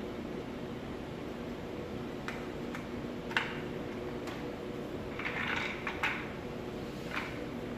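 Light clicks and knocks of chair parts being handled during assembly, about six scattered taps with a short rustle in the middle, over a steady background hum.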